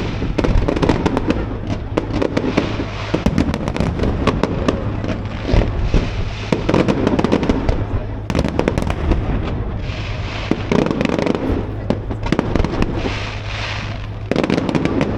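Aerial fireworks going off in a display: a dense run of bangs and crackling, many in quick succession.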